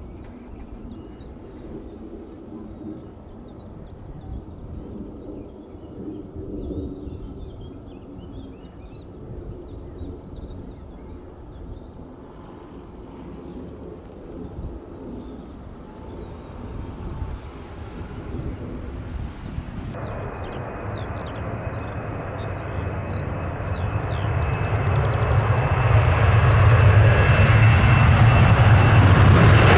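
Birds chirping over a low outdoor rumble. About two-thirds of the way in, jet airliner engine noise comes in with a steady high whine and grows steadily louder.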